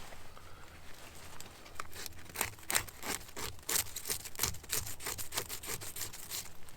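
Hand saw cutting through wood in quick, even back-and-forth strokes that start about two seconds in.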